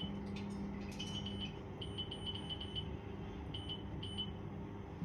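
Short high electronic beeps of one pitch in quick, irregular runs, like a pellet stove's control panel answering button presses, over a steady low hum.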